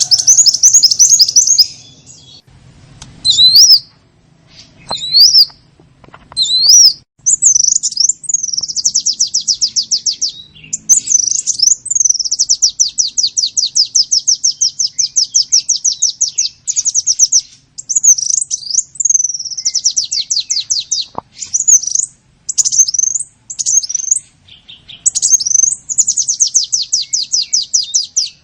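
Small songbird lure calls: short rising chirps at first, then long, fast, high-pitched trills of rapidly repeated notes, about eight a second, broken by brief pauses.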